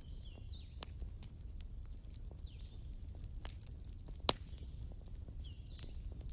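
Wood fire crackling, with many small sharp pops and one louder snap about four seconds in, over a low steady rumble. A few short chirps sound faintly in the background, near the start, in the middle and near the end.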